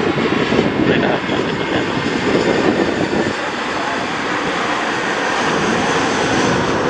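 Jet airliner engines running, a loud, steady rush of noise.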